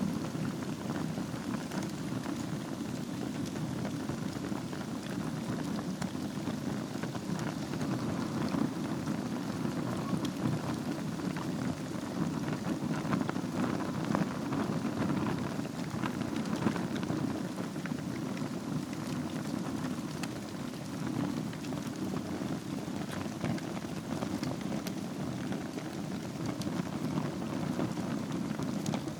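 Wood fire burning in a fireplace over a bed of embers: a steady low rush of flame with many small crackles and pops.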